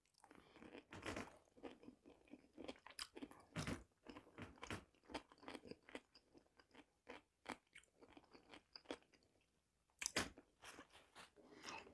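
Close-miked chewing of fried chicken leg meat: faint, irregular soft mouth clicks and smacks, a little louder about ten seconds in.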